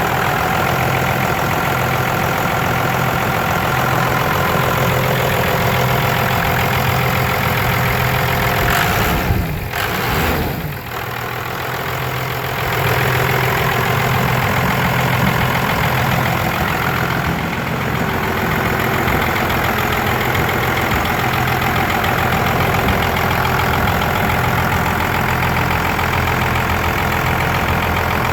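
Cummins 5.9 inline-six diesel idling steadily, with a brief dip in the sound about ten seconds in before it settles back to the same steady running.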